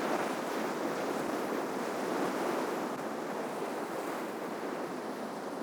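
Ocean surf washing onto the shore in a steady, unbroken rush, swelling slightly about two seconds in and easing a little after.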